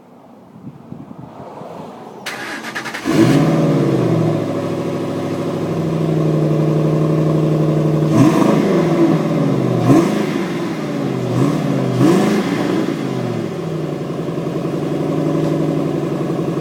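A 2007 Ford Mustang GT's 4.6-litre V8 cranks and catches about three seconds in, then runs at a steady idle. Near the middle it is revved four times in quick blips, each rising and falling back, before it settles to idle again.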